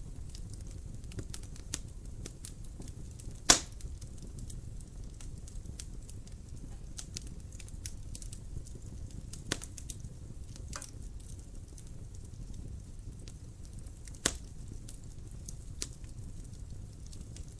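Wood fire crackling in a fireplace: a low steady rumble of burning with scattered small crackles. There are two loud pops, one about three and a half seconds in and one near fourteen seconds, and a couple of smaller snaps in between.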